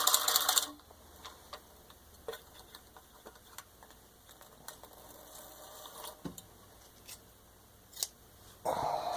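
Antique New Home Midget hand-crank sewing machine, freshly cleaned and lubricated, running with a fast, even clatter that stops under a second in. Faint scattered clicks follow, and a brief louder sound comes near the end.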